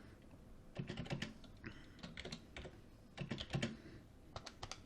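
Computer keyboard typing: four short runs of quick keystrokes, about a second apart.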